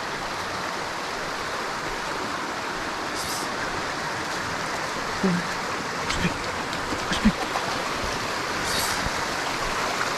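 Steady rushing noise, with a few soft knocks a little past the middle and two brief high hisses.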